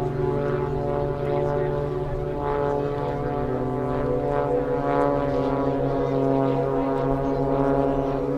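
Propeller airplane engine droning steadily overhead, a low even hum with many overtones.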